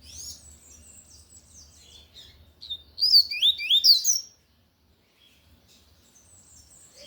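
Double-collared seedeater (coleiro) singing its tui-tui song: soft high twittering, then about three seconds in a loud phrase of quick whistled sweeps rising and falling, which stops suddenly just after four seconds.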